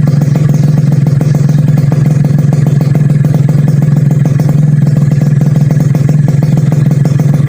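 Suzuki Satria two-stroke motorcycle engine running steadily at a constant speed, with no revving.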